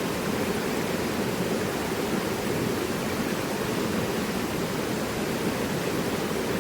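Mountain river rushing steadily over rocks: an even, full water noise with no breaks.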